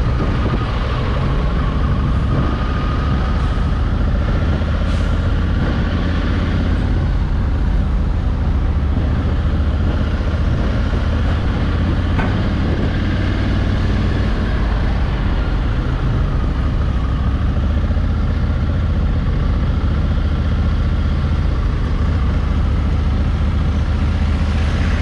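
Honda Africa Twin 1100cc parallel-twin engine running steadily under way, mixed with wind and road noise.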